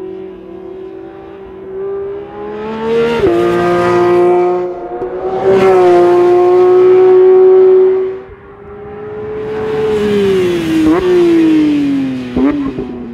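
Porsche 911 GT3's 4.0-litre naturally aspirated flat-six revving hard at full throttle, its pitch climbing and dropping with each upshift. Near the end the pitch falls away, broken by two quick rev blips as it downshifts.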